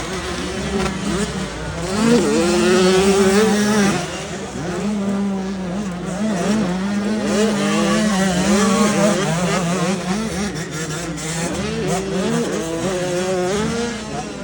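Several motocross bikes' engines revving up and down and shifting, overlapping one another, over a steadier low engine drone.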